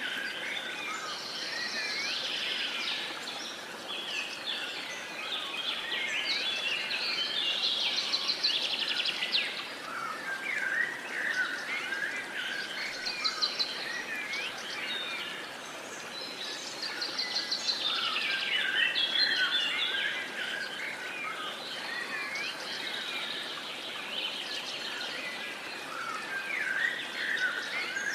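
A chorus of many songbirds, overlapping chirps, whistles and rapid trills, over a steady even hiss of outdoor background noise.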